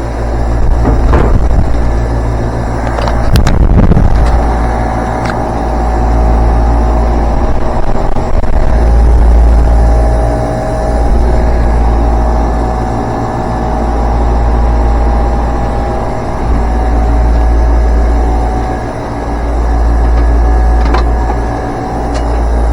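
Air-conditioner condenser fan motor running with the compressor silent: the compressor has failed to start. It sounds as a heavy low rumble that swells and fades every few seconds with a faint steady hum above it, and a few knocks come in the first few seconds.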